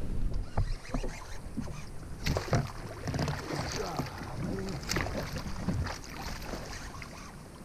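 Irregular knocks and water splashing around a fishing kayak while a hooked bass is fought beside the hull, with a few sharper splashes a little over two seconds in and again near five seconds.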